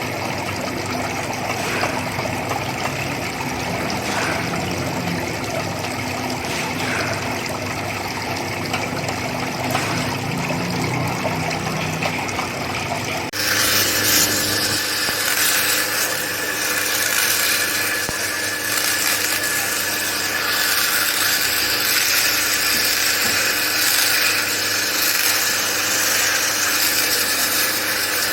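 A power tool running steadily. About halfway through the sound changes abruptly to a louder, hissing whirr with a steady high whine.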